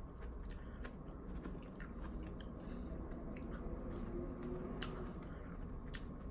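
Quiet chewing of fried food, french fries and chicken nuggets, with scattered soft clicks.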